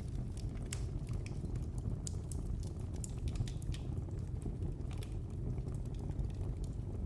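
Wood fire burning in a fireplace: a steady low rumble of the flames with frequent, irregular crackles and small pops of the burning logs.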